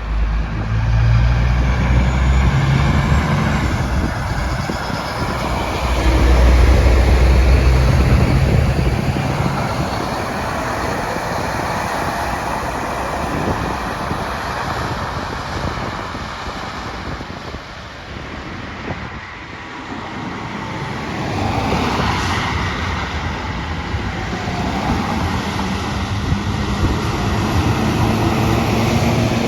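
Road traffic passing, with heavy trucks driving by. Deep engine rumbles come through about a second in and again, loudest, from about six to nine seconds in, and the noise of the traffic swells again past twenty seconds.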